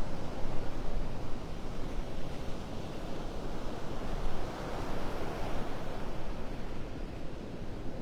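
Gulf surf washing on the beach, with some wind on the microphone; the wash swells a little about midway.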